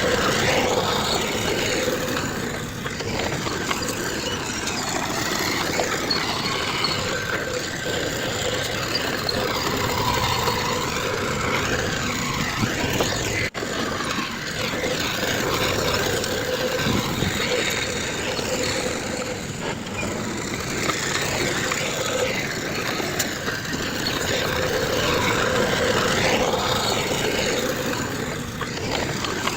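Heavy diesel earthmoving machinery, bulldozer and dump truck engines, running steadily under load, with a brief dropout about halfway through.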